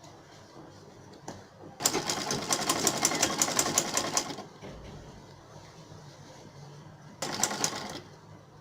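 Sewing machine stitching a seam in two runs of fast, even stitching: one of about two and a half seconds, then a short burst near the end.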